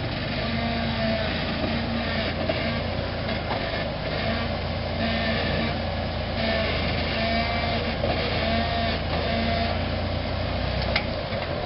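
Off-road Jeep's engine running at low revs, steady, as the vehicle crawls slowly down off a rock obstacle.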